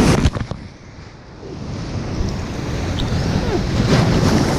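Ocean waves breaking and washing in, with wind on the microphone. The surge cuts off about half a second in and builds up again over the next few seconds.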